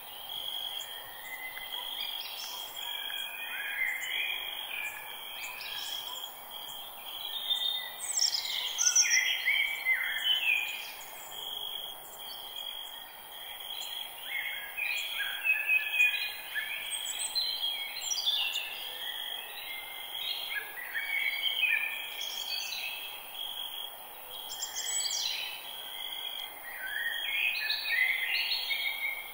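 Forest ambience: several birds singing and chirping in overlapping phrases, busiest around 8 to 10 seconds and again around 15 to 18 seconds, over a steady high insect drone and a faint background hiss.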